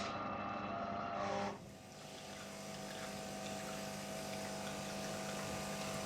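De'Longhi ECAM bean-to-cup coffee machine running a manual rinse cycle: a steady pump hum with hot water flowing through the system to preheat it. The sound steps down about a second and a half in and then runs on steadily.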